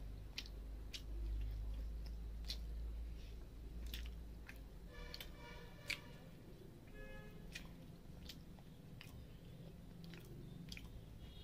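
Close-up chewing of a mouthful of rice and fried fish, with scattered wet mouth clicks and smacks, and the soft squish of rice and gravy being mixed by hand.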